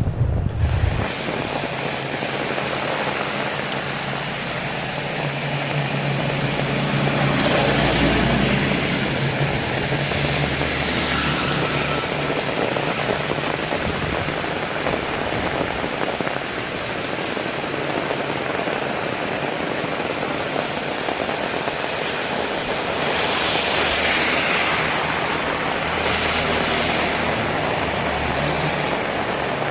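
Heavy rain falling steadily, with a vehicle's rumble swelling and fading about a quarter of the way in and again later on.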